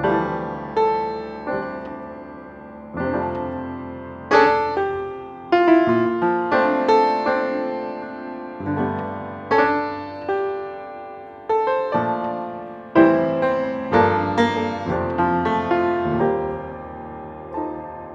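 Background piano music: slow chords and notes, each struck and left to fade.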